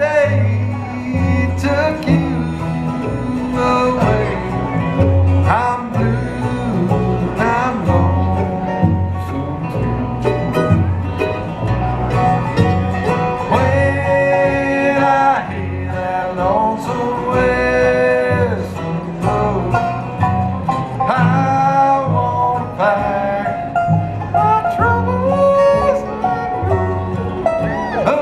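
Live bluegrass band playing: banjo and mandolin picking over guitar and a steady alternating bass line, with a melody line that bends in pitch.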